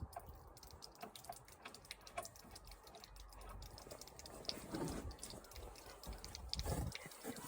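Irregular light clicks and taps, several a second, with a few heavier soft knocks around five and seven seconds in.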